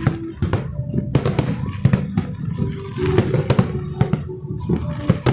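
Fireworks display: a quick, continuous run of bangs and crackles from shells bursting one after another, with music playing underneath in sustained tones.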